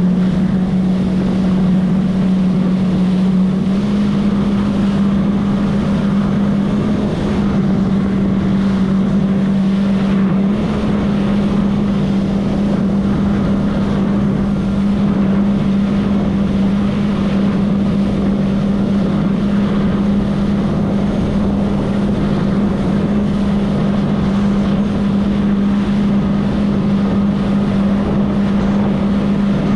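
Jet ski engine running steadily at speed, its note shifting a little a few times with the throttle, over rushing water and wind on the microphone.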